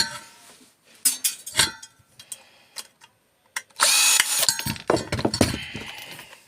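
Power drill-driver unscrewing a screw from a microwave part: one steady burst about four seconds in, with clicks and a rattle of loose metal parts around it.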